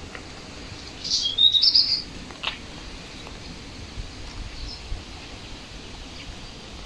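A small bird gives a short, rapid, high-pitched trill about a second in, over faint outdoor background noise.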